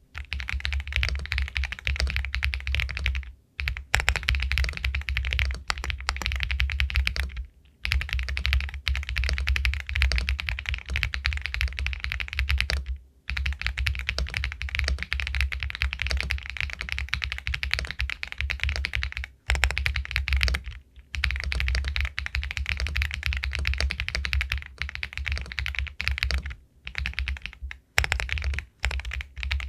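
Fast, continuous typing on an Epomaker Galaxy 80 Pro aluminium mechanical keyboard with White Jade linear switches, a pebble-like clacking of keystrokes. It comes in runs of several seconds, broken by brief pauses.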